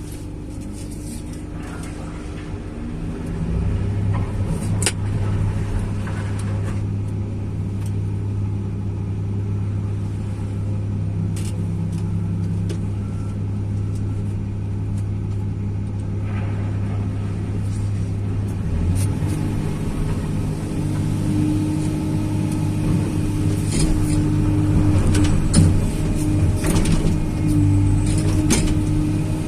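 Tracked excavator's diesel engine running steadily under load. It comes up harder about three and a half seconds in and changes pitch a little past halfway. Scattered metallic knocks and clanks come near the end.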